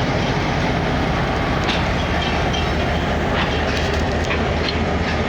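Diesel-hauled passenger train pulling out and rolling, with a steady rumble and a few sharp clicks of wheels over rail joints.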